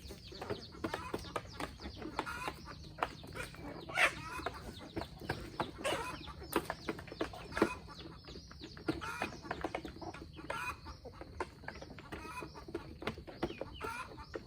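Free-range chickens clucking with short calls scattered throughout, among many sharp clicks and taps.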